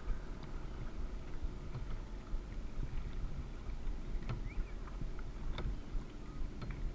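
Kayak on a lake: a steady low rumble of water against the hull, with scattered light clicks and knocks from the paddle and boat.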